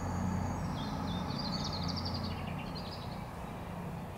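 Small birds chirping and trilling in quick high phrases over a steady low hum of background noise.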